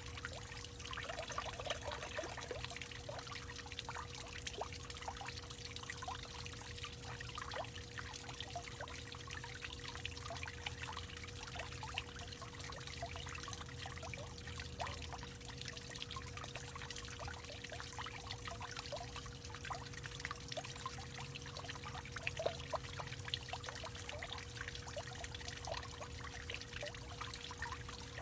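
Water trickling and pouring steadily in a hollowed-out tree, with many small splashing drops throughout.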